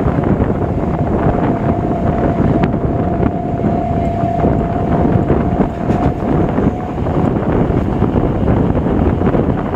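A BEML EMU local train running at speed, heard on board: a steady rumble of wheels on track with wind buffeting the microphone. A faint, steady high whine runs through the middle for several seconds.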